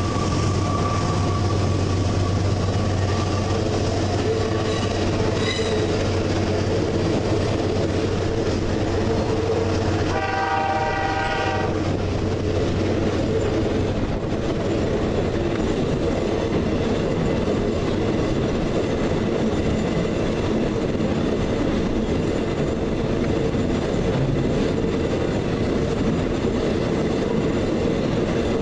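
Empty iron-ore railcars rolling steadily past close by, their wheels running over the rails. A locomotive horn sounds once for about a second and a half, about ten seconds in.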